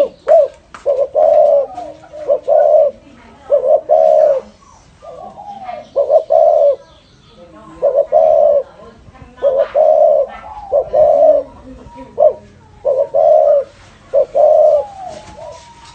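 Spotted dove cooing in the 'thổ rền' style, a steady string of low, hollow coos roughly one a second with short pauses between phrases.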